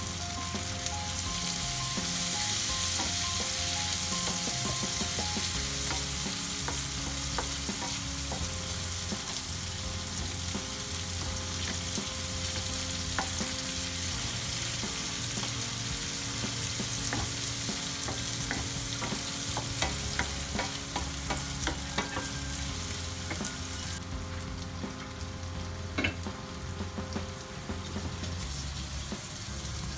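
Chicken liver and onion sizzling in a nonstick frying pan, with a wooden spatula stirring and tapping against the pan. The sizzle turns softer a few seconds before the end.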